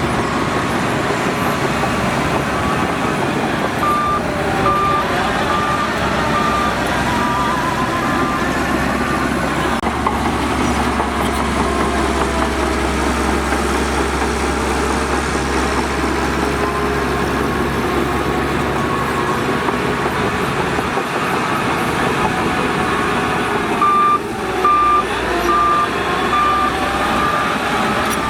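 Heavy earthmoving machinery running steadily under load. A backup alarm beeps about twice a second for a few seconds, twice: once a few seconds in and again near the end.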